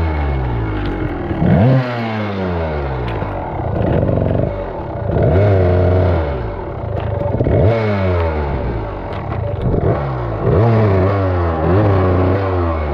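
Dirt bike engine being ridden, its pitch rising and falling again and again, about every one to two seconds, as the throttle is worked.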